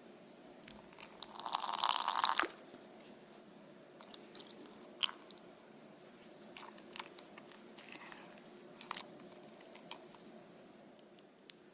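Someone biting into a baked cinnamon roll and chewing: a loud crackly bite about a second and a half in, then quieter chewing with small scattered clicks.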